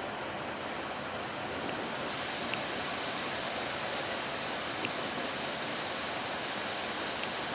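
Steady rush of air noise on a Boeing 747-8 flight deck on final approach, a hiss that turns slightly brighter about two seconds in, with a few faint ticks.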